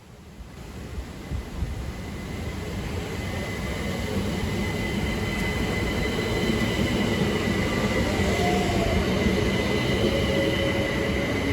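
Southeastern Class 377 electric multiple unit growing steadily louder as it moves off. Its motors give a steady whine, with a higher tone starting to rise near the end.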